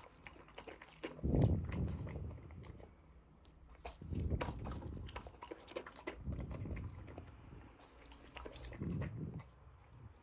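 Dog eating, chewing and crunching its food: many sharp crunches and clicks, with a swell of lower sound about every two seconds.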